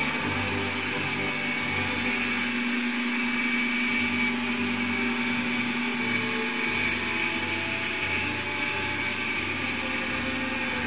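Stretham Old Engine's steam-engine machinery turning under electric drive: a steady mechanical hum with held tones and an uneven low rumble.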